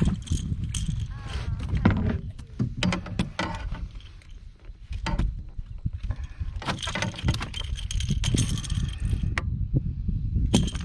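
Knocks, clicks and rattles of a small blue catfish being landed and handled aboard a kayak, with a busier rattling stretch about seven seconds in, over a steady low rumble.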